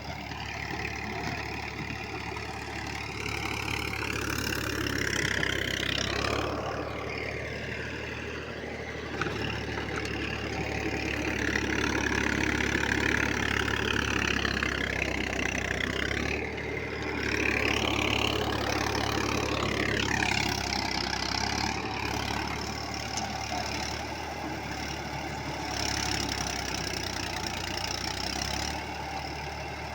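Massey Ferguson 5245 tractor's diesel engine running, revved up twice, its pitch and loudness rising and then dropping back: once over the first six seconds and again from about ten seconds until it falls back to a steady idle around twenty seconds in.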